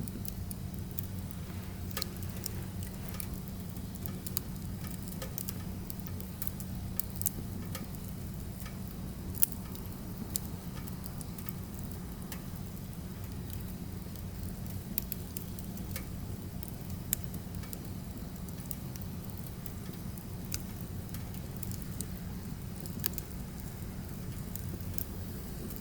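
Firewood burning with a steady low rumble and frequent small crackles, with a few sharper pops scattered through, the loudest about nine and a half seconds in.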